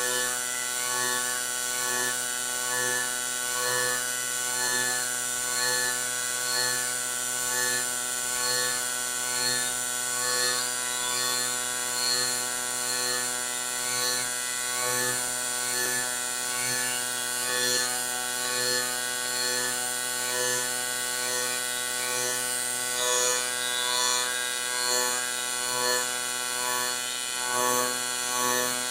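AC TIG welding arc on aluminium, a steady electric buzz that swells in a regular rhythm about once a second.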